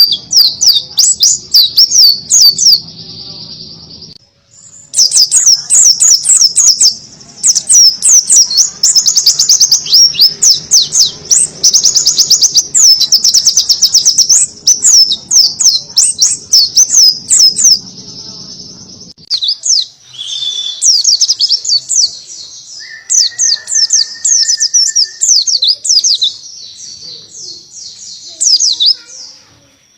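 Pleci buxtoni, an Oriental white-eye, singing a loud, fast song of rapid high chirps and sweeping notes in long runs, delivered in the canary-like 'shots' style. The song pauses briefly about four seconds in and again about two-thirds of the way through.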